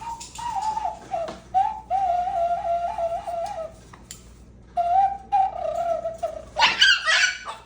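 Pet parrot whistling a warbling tune in short phrases, then a loud harsh squawk near the end.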